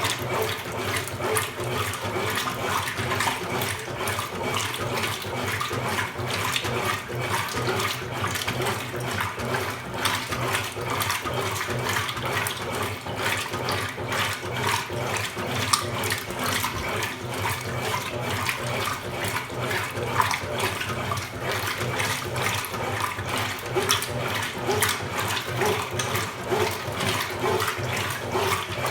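Consul Super Cargo 8 kg top-loading washing machine running with water splashing and churning in the tub, over a steady low motor hum.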